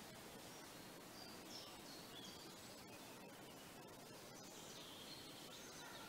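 Faint high bird calls, a few short chirps scattered through, over a low steady outdoor hiss.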